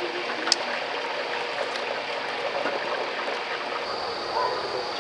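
Wood campfire burning: a steady hiss with scattered crackles and one sharp pop about half a second in.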